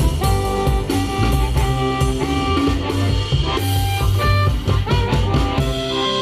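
Blues band playing an instrumental break, with a guitar lead over bass and drums.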